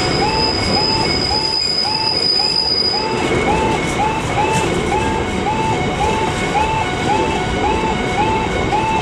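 Container freight train wagons rolling past with a steady rumble of wheels on rail, and a thin high wheel squeal over the first three seconds. A separate rising tone repeats about twice a second throughout.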